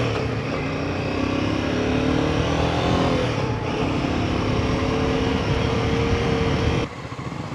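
Royal Enfield Himalayan 450's single-cylinder engine running under way, its pitch rising and falling with the throttle. The sound drops off suddenly near the end as the throttle closes.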